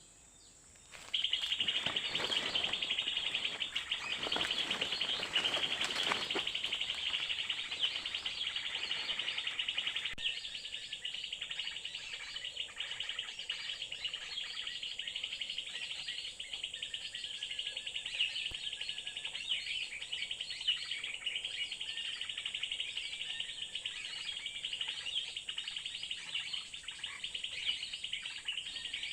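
A bird lure set out by a bird trapper to attract wild birds, giving dense, rapid high-pitched chirping that starts abruptly about a second in and keeps going without a pause.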